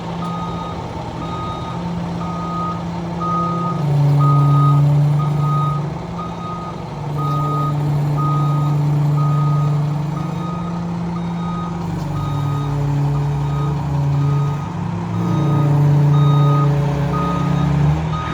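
2008 International 8600 semi truck backing up: its reversing alarm beeps about once a second over the diesel engine, which speeds up and slows down several times.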